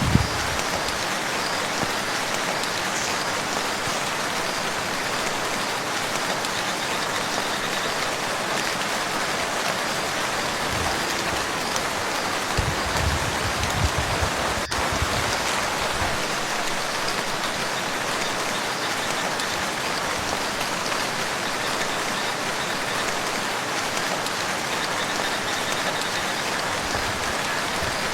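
Steady rain falling on a lake and its shore, an even hiss of many drops. A brief low rumble comes about halfway through.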